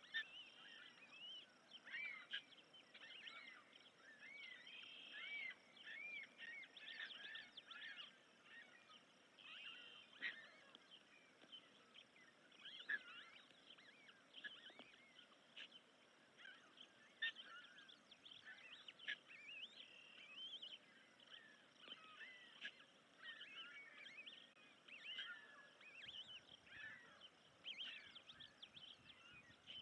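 Faint, continual bird chirps and calls, many short arching notes overlapping, with a faint steady high hiss beneath.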